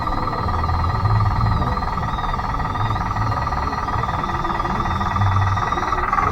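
Converted Bruder D5 remote-control model bulldozer running: a steady electric motor and gearbox whine, with an uneven low rumble that swells and fades.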